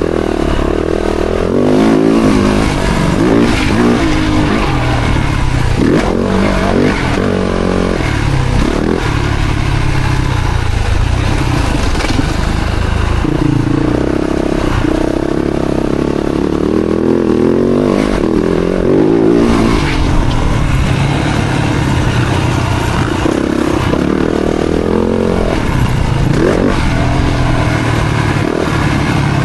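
Yamaha YZ-F four-stroke motocross bike engine revving hard and falling off again and again as the rider works the throttle.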